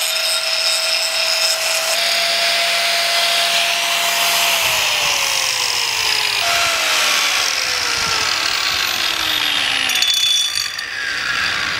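Handheld electric power tool cutting metal on an exhaust, with a loud hiss over a steady motor whine. The motor's pitch sags twice, about halfway through and again a couple of seconds later, as it is pressed into the work, and it winds down near the end.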